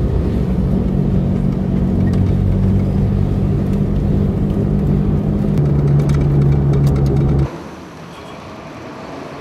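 Car engine running, heard from inside the cabin while driving, a steady hum that drops to a lower note about five and a half seconds in. Near the end it cuts off abruptly to quieter street noise.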